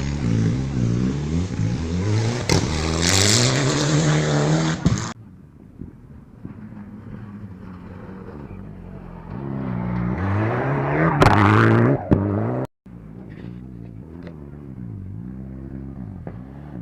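Rally cars driven hard, the engine note climbing and dropping sharply with each gear change. The sound cuts off abruptly twice between passes, and the loudest pass comes about two-thirds of the way through.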